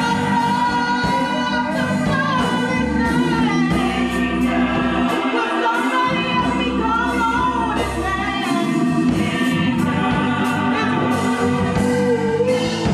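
Church choir singing a gospel song over a band, with a bass line moving under the voices and a steady drum beat.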